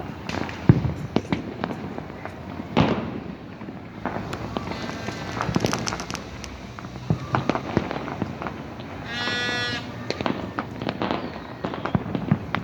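Fireworks and firecrackers going off: a steady string of bangs and crackles, loudest about a second in and again near three seconds. A short held note with many overtones sounds once about nine seconds in.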